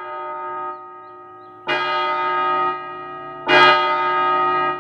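A large bell like a clock's strikes three times, about every 1.7 seconds, each stroke ringing on until the next and each louder than the last: a clock sounding the hour, telling that time is up.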